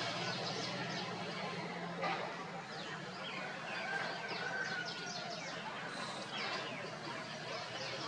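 Small birds giving many short, high chirps, mostly from about two to seven seconds in, over a steady urban background hum.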